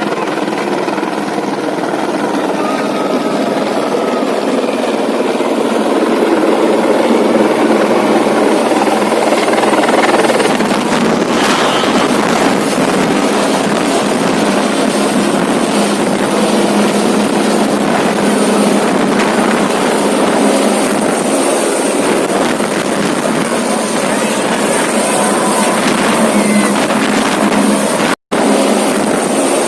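Airplane noise: a steady, loud drone of engines and rushing air during descent, with a momentary dropout near the end.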